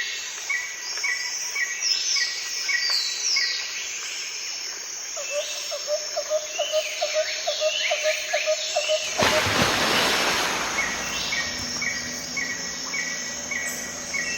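Several wild birds calling and singing together: a short note repeated about three times a second, quick falling whistled phrases, and a lower rapid string of notes partway through. About nine seconds in a loud steady rushing noise comes up under the birds.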